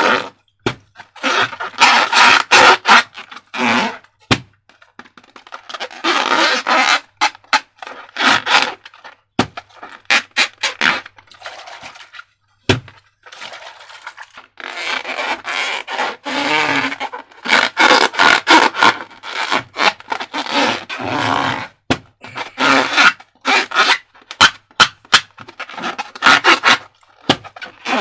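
Slime being squished and worked by hand, making irregular sticky crackling and squelching noises, with a few sharp clicks.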